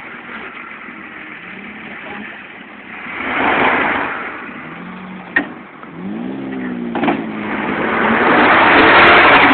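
Pickup truck engines, a 300 straight-six and a 5.4-litre Triton V8, revving under load in a truck pull. The sound swells, eases and builds again louder near the end, with a rising rev about two-thirds of the way through and two sharp knocks.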